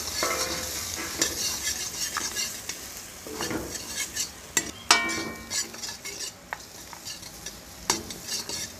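Freshly added goat trotters sizzling in hot oil in a wok while a steel ladle stirs them, scraping and clicking against the pan. About five seconds in, a sharp ringing clang of metal on metal is the loudest sound.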